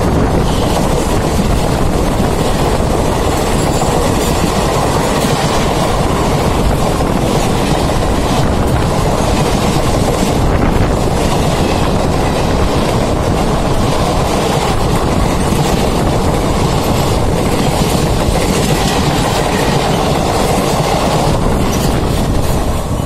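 Passenger coaches of an express train running through at speed close by: a loud, continuous rumble of wheels on rail with clickety-clack over the rail joints. It dies away at the very end as the last coach passes.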